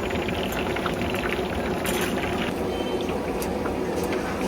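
Hot oil sizzling with a dense, steady crackle, as when spoon buns are deep-fried.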